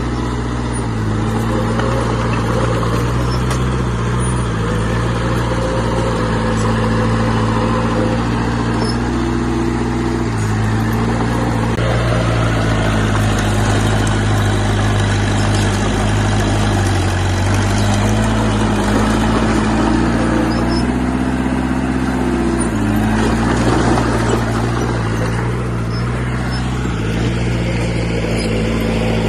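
Heavy construction machine's diesel engine running steadily under load, its pitch shifting up and down several times as the revs change.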